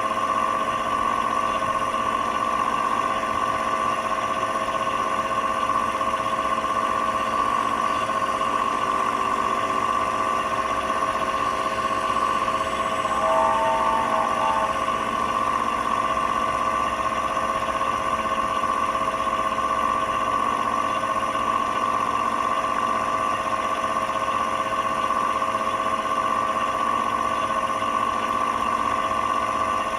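Simulated diesel engine sound from the onboard sound unit of a 1/12 scale RNLI Tyne class lifeboat model, running at a steady, even pitch.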